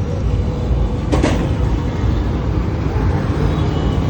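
Steady low rumbling background noise with a single sharp click about a second in.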